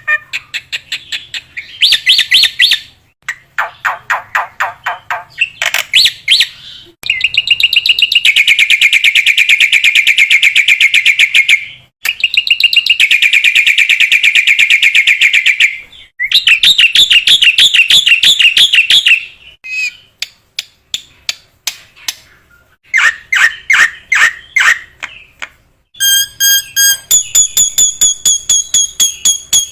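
Loud songbird recordings spliced one after another, as in a bird-mastering track: fast chattering trills and rapid buzzy rattles in bursts a few seconds long, each cutting off sharply. Near the end comes a run of high, clear whistled notes at several pitches.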